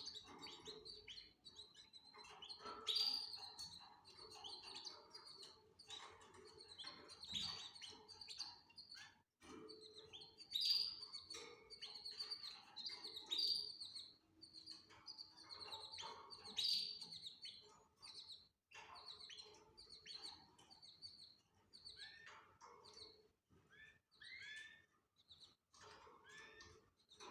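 Canaries chirping: short, high chirps repeated in clusters, with a few lower falling notes near the end.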